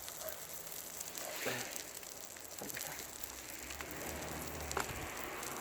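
Egg pancake sizzling in a frying pan over a crackling wood fire: a steady hiss with scattered sharp pops.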